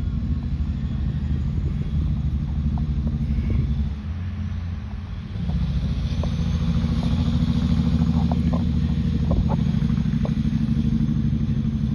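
A motor vehicle engine running steadily at idle, growing louder about five seconds in.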